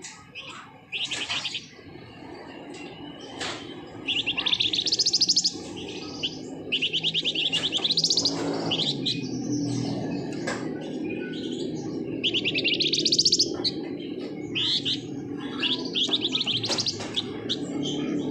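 Flamboyan songbird singing in rapid rattling trills (the 'ngebren' song), bursts about a second long repeated every few seconds, with short sharp chirps between them.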